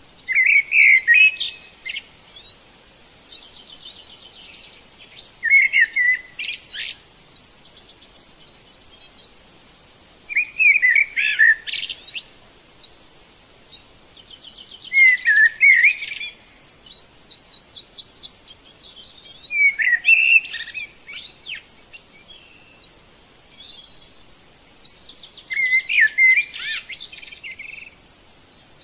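Songbird singing a short trilled phrase about every five seconds, six times, with other birds chirping faintly between phrases.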